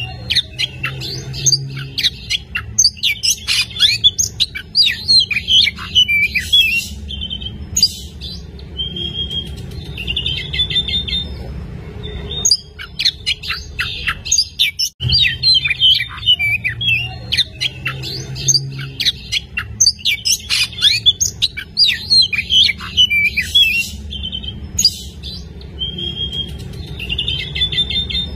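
Oriental magpie-robin (kacer) singing hard: a fast, unbroken stream of varied whistles, chips and harsh notes, over a low steady hum. About halfway through, after a brief dip, the same song passage plays again.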